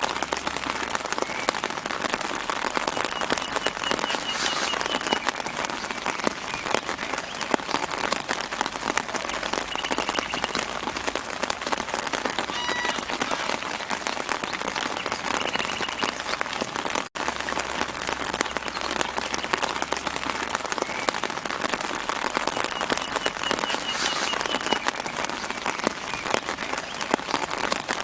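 Steady light rain pattering on leaves, a dense stream of small drops, with faint short bird trills now and then. The sound cuts out for an instant about two-thirds of the way through.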